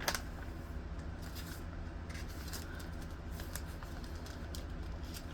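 Pages of a Bible being leafed through: light papery rustles and small clicks, with one sharper click near the start, over a steady low hum.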